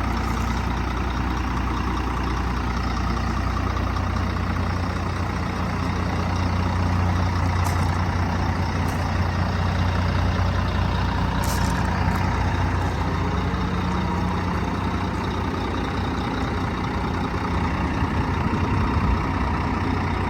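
Scania R124 400 truck's inline-six diesel engine idling steadily, with a few faint clicks.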